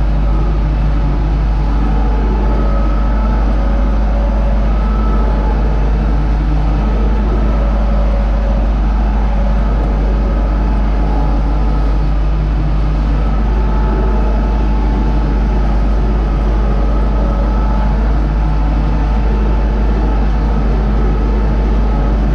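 Universal U650 tractor's four-cylinder diesel engine running steadily.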